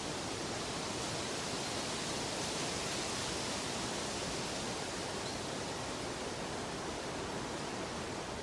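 Steady, unbroken rushing hiss of a sleep-and-relaxation soundscape, even in level throughout with no rhythm or separate events.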